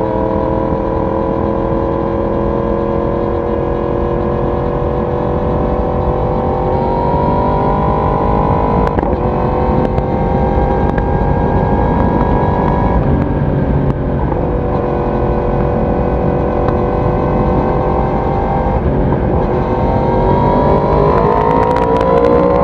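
Yamaha YZF-R1 crossplane inline-four running at highway speed, recorded at the exhaust. Its pitch steps up about a third of the way in and drops back about halfway. Near the end it climbs steadily as the bike accelerates.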